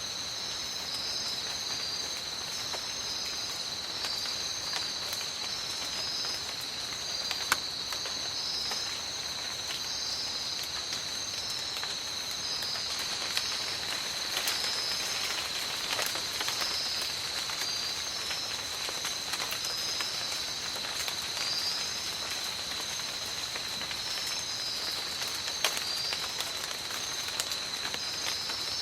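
Steady tropical rain with individual drops ticking sharply on leaves and surfaces. Under it runs a continuous high insect drone, with a repeating high chirp pulsing over it.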